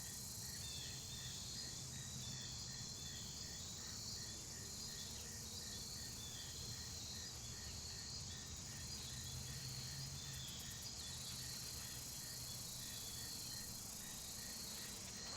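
Outdoor insect chorus, crickets chirping in a steady high-pitched drone, with a softer chirp repeating about two to three times a second through most of it.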